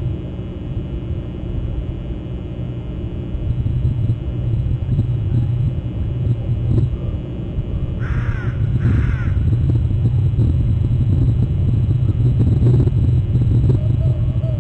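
Two harsh bird calls about a second apart, around eight seconds in, over a steady low rumble.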